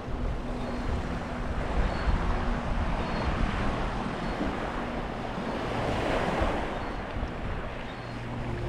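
Small sea waves washing onto a beach, swelling twice, about a third of the way in and again past the middle, with wind gusting on the microphone. A faint, steady low motor hum runs underneath.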